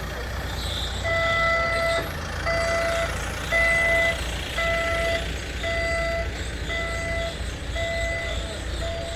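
Vehicle reversing alarm beeping at a steady pitch about once a second, eight beeps, over the low rumble of an idling engine.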